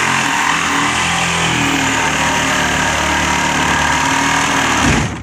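Power saw running hard with its pitch shifting, then cutting off abruptly near the end with a low thump as the blade jams in the cut.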